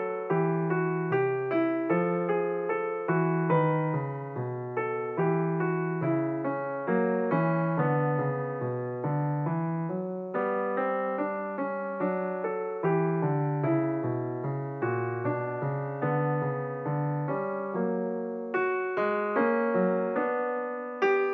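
Background piano music: a steady flow of struck notes in a gentle melody over a lower bass line.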